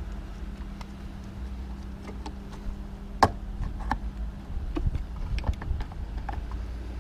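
Scattered clicks and light knocks of small parts being handled as a vacuum hose is fitted, the loudest a sharp knock about three seconds in, over a steady low hum.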